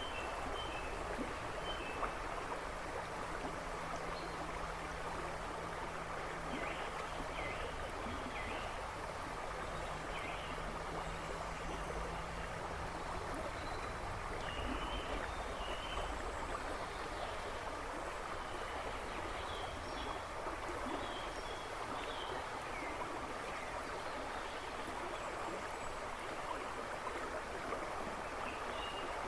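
River water rushing and babbling steadily over stones, with birds chirping intermittently in the background.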